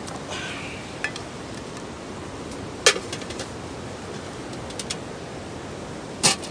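A few sharp clicks and knocks over a steady background hiss: a small one about a second in, a loud one near the middle and another near the end, with faint ticks in between.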